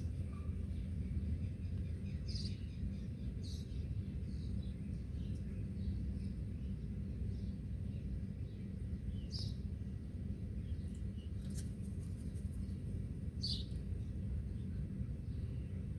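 Birds chirping: short, high calls scattered every few seconds, the clearest about two and a half, three and a half, nine and a half and thirteen and a half seconds in. Under them runs a steady low rumble of background noise.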